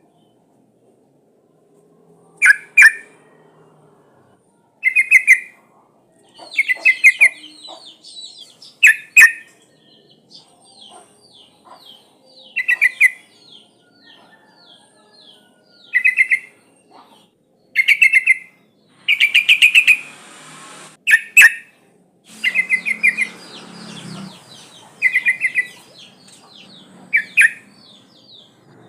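Yellow-vented bulbul (trucukan) calling in short bursts of rapid chirping notes every couple of seconds, a lure call of a female calling a male. A fainter run of quick, higher notes sounds in the first half, and a hiss sits under the calls in the last third.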